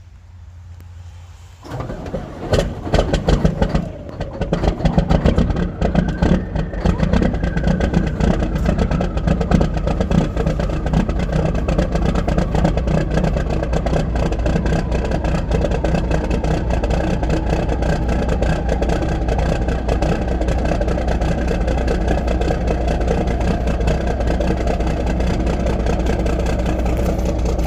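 Caterpillar 3406E 15.8-litre inline-six diesel on a cold start: it fires about two seconds in, runs loud and uneven with surges for several seconds, then settles into a steady idle.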